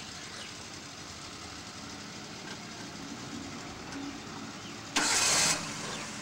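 A small hatchback's engine idling steadily with the driver's door open. About five seconds in, a loud burst of hiss cuts in for about half a second.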